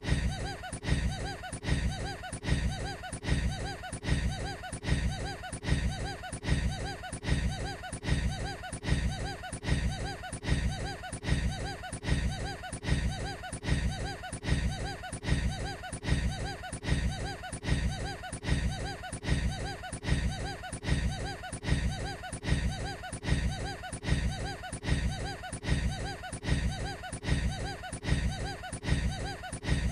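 One short burst of a man's laughter, looped over and over, repeating evenly a little faster than once a second.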